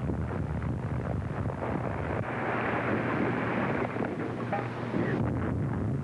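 Continuous rumble and crackle of artillery shellfire on a noisy early sound-film track, swelling in the middle.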